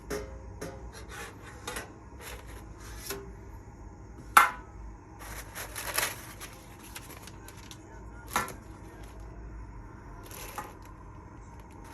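Handling noises: scattered light clicks and knocks of objects being moved about, with rustling in the middle, a sharp knock about four seconds in and another about eight seconds in.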